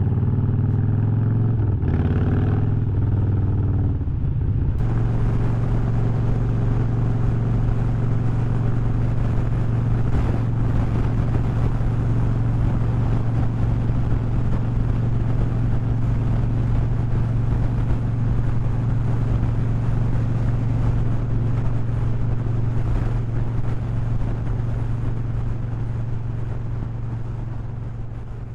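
Harley-Davidson V-twin engine and exhaust running under way on the road, with wind noise. The engine note shifts in the first few seconds, then holds a steady cruising drone, and it fades out near the end.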